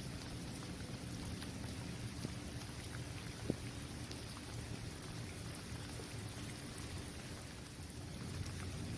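Steady rain falling on an outdoor basketball court, with scattered drop ticks and one sharper drop hit about three and a half seconds in, over a low rumble.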